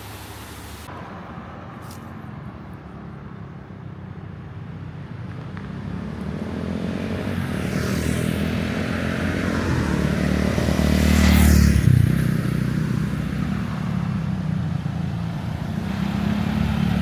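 A motor vehicle's engine and tyres, growing louder to a peak about eleven seconds in, then easing off, and rising again near the end.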